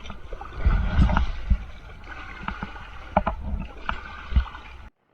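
Rafters paddling an inflatable river raft: irregular paddle strokes splashing and knocking over a low rumble. The sound cuts off suddenly near the end.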